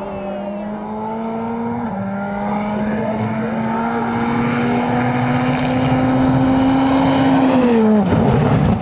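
Rally car engine at full throttle, its note climbing steadily and getting louder as the car comes nearer, with a gear change about two seconds in. Near the end the note drops sharply and gives way to a rough, noisy burst as the car goes by.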